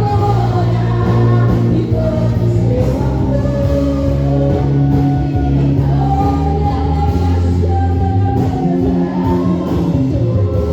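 Church worship music with singing: a sung melody over long-held low bass or keyboard notes that change every couple of seconds.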